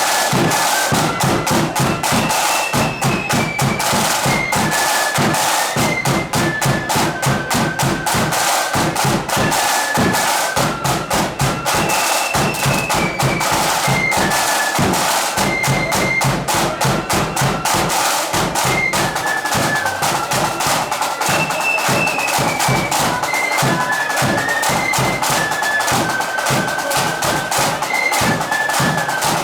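Marching flute band playing a tune: flutes in unison carry a high melody over rapid snare drumming and bass drum beats.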